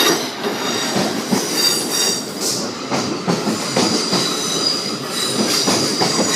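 A train rolling past over the level crossing, its wheels clicking over the rail joints in a regular rhythm, with a high steady whine over the rumble.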